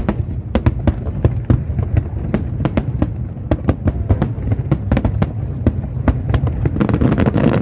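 Aerial fireworks going off in quick succession: sharp bangs and cracks several times a second over a continuous low rumble of distant bursts, swelling into a louder rushing crackle near the end.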